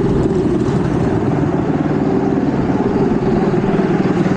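Minibike engine running steadily with a rapid, even putter.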